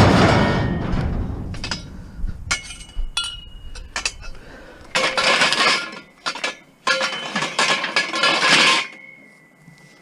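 Scrap metal being handled and thrown about: a loud clanking impact at the start that rings away, a few light clinks, then two longer spells of rattling and scraping about halfway through and again near the end.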